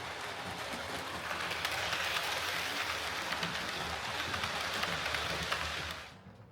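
Hornby OO gauge Rebuilt Merchant Navy model locomotive running on track under DC power after its repair: a steady rush of motor and wheels on rail with fine rapid clicking and a low hum. The sound stops sharply about six seconds in.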